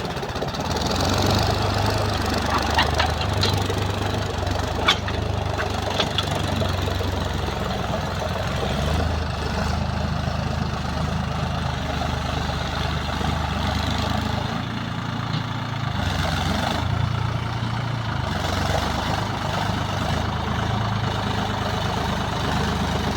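Sonalika Tiger DI 50 tractor's diesel engine running steadily while ploughing a field, with a few sharp knocks between about three and six seconds in.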